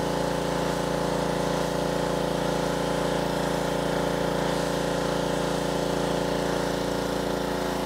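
Pressure washer's engine running steadily, with a steady hiss of water spray above it, while cleaning a concrete yard.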